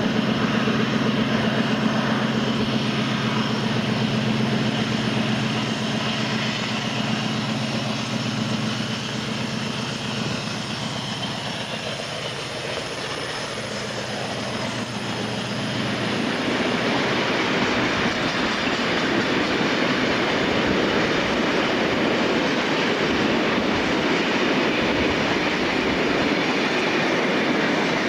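Class 56 diesel locomotive's 16-cylinder engine running with a steady low drone as it hauls tank wagons past. The drone fades and, from about halfway, gives way to a loud, even rumble of the wagons' wheels running over the rails.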